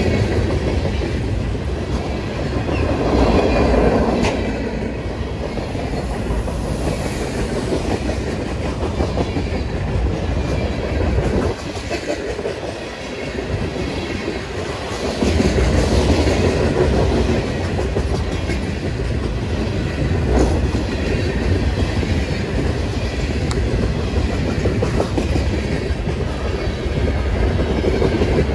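A train passing close by on the tracks, its wheels running steadily over the rails, with a brief lull about halfway through.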